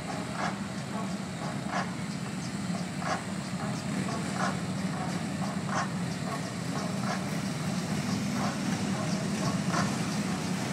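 Police motorcycle engines idling steadily, with a short high chirp repeating about every one and a third seconds.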